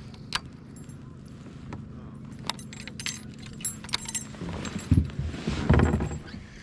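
Small metal pieces clinking and jangling in scattered sharp clicks over a steady low hum, which stops about four seconds in; then two louder low thumps with rubbing, about five and six seconds in.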